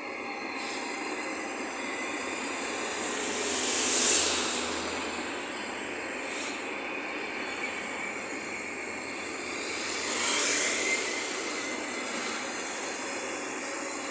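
Hitachi 'Rock' double-deck electric train of Trenitalia Tper passing close by, a steady rush of wheels rolling on the rails. It swells louder twice, about four seconds in and again about ten seconds in.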